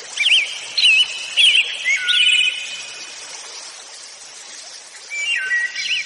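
Birds calling: a run of short, wavering whistled chirps over a faint steady hiss, a lull in the middle, then more calls near the end.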